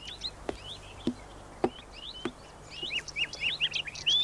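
Small birds chirping: many short rising and falling chirps with a few sharp clicking notes, growing busier about three seconds in.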